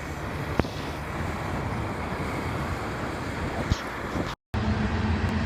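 Motorcycle ride: wind and road noise on the microphone with a low engine rumble and a couple of sharp clicks. After a brief break near the end, a steady engine drone.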